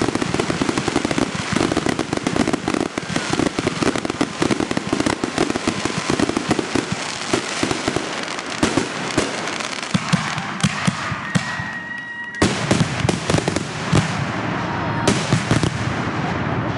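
Consumer fireworks going off in a dense barrage of rapid crackling and popping that thins to scattered pops after about ten seconds, with a brief high whistle near the end.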